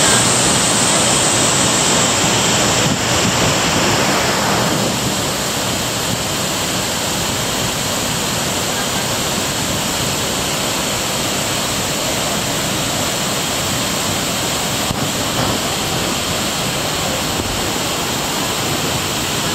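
Waterfall: a steady, loud rush of falling water, a little fuller for the first few seconds.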